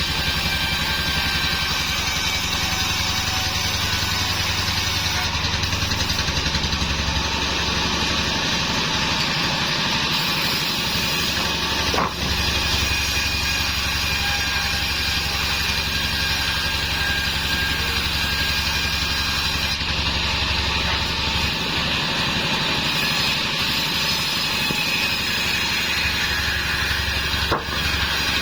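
The engine of a homemade band sawmill running steadily, with two short clicks, one about midway and one near the end.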